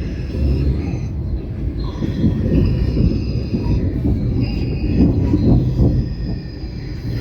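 Passenger train moving through the station: a loud low rumble of wheels on the rails, with thin high squeals that come and go.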